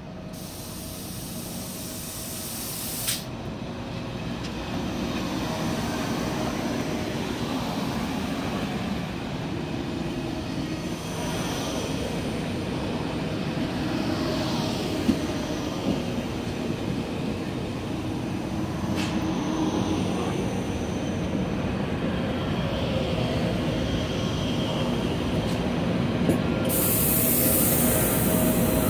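Deutsche Bahn ICE T electric train rolling alongside the platform, its steady wheel-on-rail running noise and hum growing gradually louder as the cars come past close by. There are a couple of sharp clicks along the way, and a high hiss sets in near the end.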